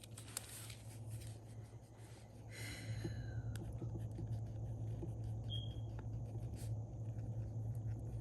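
Pen writing on paper in a planner: soft scratching strokes and small ticks, a little louder from about three seconds in, over a steady low electrical hum.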